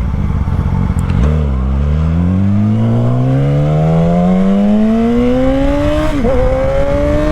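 Motorcycle engine pulling hard under acceleration, its pitch climbing steadily through the gears. There is a short dip about a second in and another about six seconds in, where the rider shifts up.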